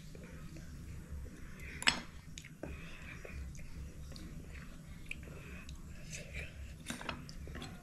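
Soft, wet chewing and mouth sounds of a person eating raw sea urchin roe, with a couple of sharper clicks about two seconds in and again near the end.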